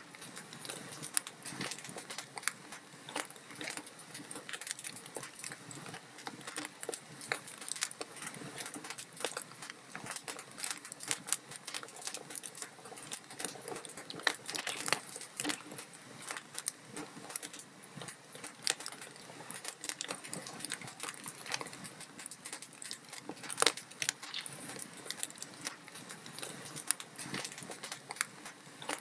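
Wood fire crackling in a fireplace: a steady stream of small irregular snaps and pops from burning logs, with occasional louder pops.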